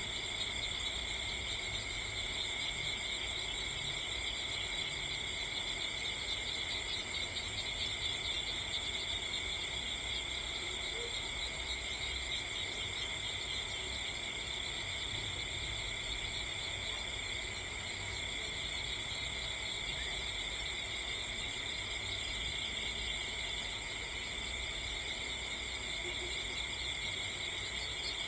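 Chorus of crickets or similar night insects, a steady high chirring in several pitches that does not let up, over a low rumble.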